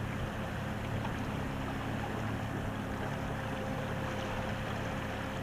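Steady wind and water noise aboard a small open sailing boat in light air, with wind buffeting the microphone and a low steady hum underneath.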